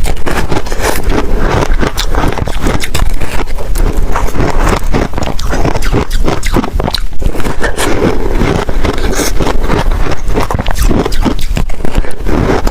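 Close-miked crunching and chewing of freezer frost ice in the mouth: dense, irregular crackling crunches all the way through.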